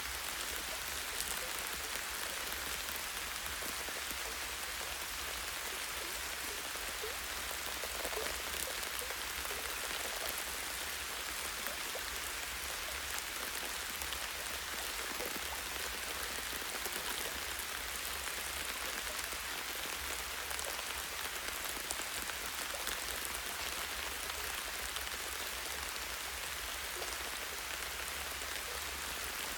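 Light, steady rain falling on the leaves and branches of trees, a dense even patter with individual drops ticking through it.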